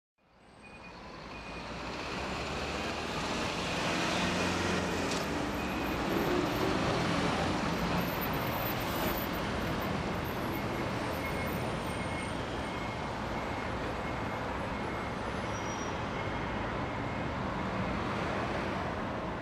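Road traffic noise: a steady rumble of car and truck engines and tyres, fading in over the first couple of seconds. A faint, intermittent high beeping comes and goes above it.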